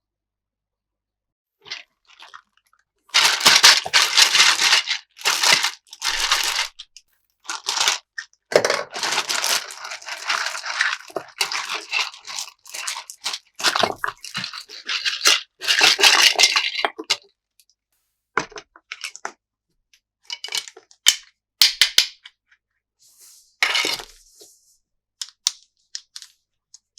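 Toy packaging being handled and torn open: loud crinkling and crackling of plastic and cardboard in repeated bursts, giving way in the last third to scattered sharp snaps and short rustles.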